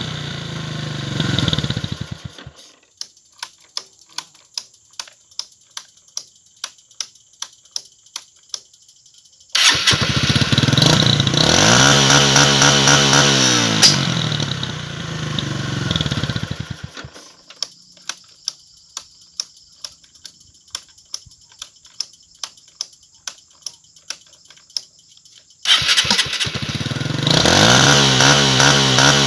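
Motorcycle engine with a new CDI ignition revved hard three times, near the start, about 10 s in and about 26 s in. While held up, its pitch wavers up and down, as when bouncing off the rev cut. Between the revs it falls back to a slow, low run of evenly spaced pops.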